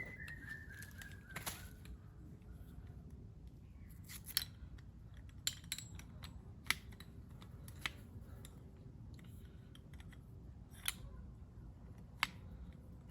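Scattered sharp clicks and snaps, about seven at irregular intervals, over a low steady rumble. A bird's high whistle trails off in the first second and a half.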